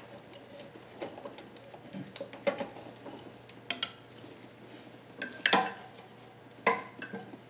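Scattered metal clinks and taps of a bolt and hand tools against the engine's motor mount and bracket. The two loudest come near the end, each with a short ring.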